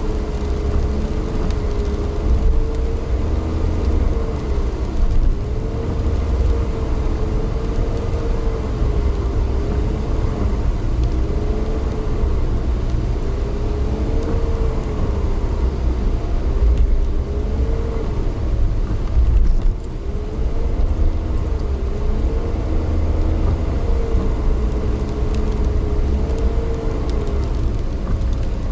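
A vehicle running along steadily, heard from on board: a constant deep rumble with a whining tone that rises and falls every few seconds.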